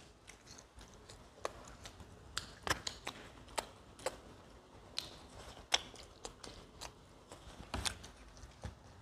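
Pizza crust being bitten and chewed: faint, irregular crunches and clicks scattered throughout.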